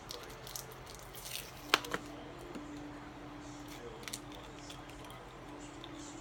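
Small plastic cosmetic package being handled and worked open by hand: scattered rustles and small clicks, with two sharp clicks about two seconds in.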